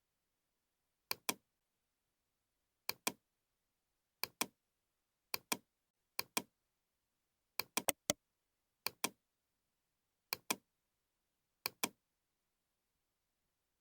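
Computer mouse clicks in quick pairs, about one pair every second or so, with a run of three clicks about halfway through.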